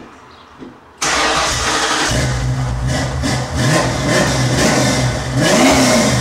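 Ford Mustang Mach 1's V8 starting: it cranks and fires about a second in, then settles into a steady idle through the dual exhaust. It is blipped once near the end.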